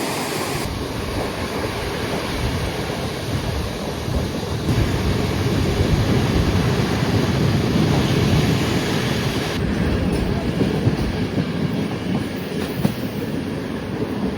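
Passenger train running on the rails: a steady rumble of wheels and track noise. The sound changes abruptly a few times, as if several short clips were joined.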